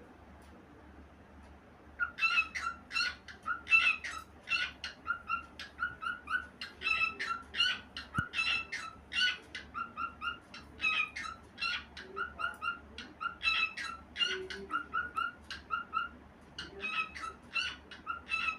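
Cockatiel singing: a rapid, nonstop run of short whistled chirps, several a second, starting about two seconds in after a brief quiet.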